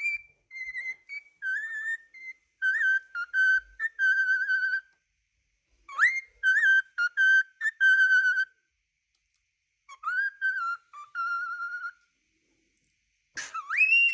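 Pet parrot whistling a tune in three short phrases of clear held and wavering notes, with pauses between them. A phrase opens with a quick rising swoop, and another loud swoop up comes near the end.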